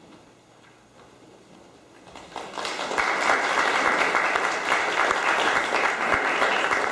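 Audience applauding, starting about two seconds in and quickly building to a steady, dense clapping.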